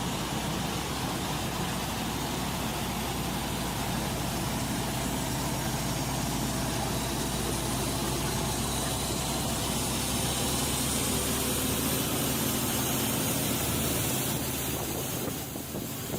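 Engine of a heavy vehicle running steadily, with a broad hiss over a low rumble; the low rumble drops away near the end.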